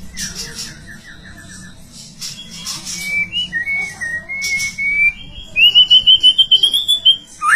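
White-rumped shama singing: a quick run of repeated notes, then clear sliding whistles, and a rapid rising trill near the end, broken by a few short harsh bursts.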